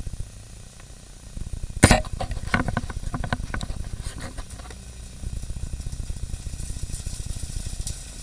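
Car engine running with a steady low pulsing rumble. About two seconds in there is one sharp loud bang, followed by a couple of seconds of clattering as gravel strikes the car.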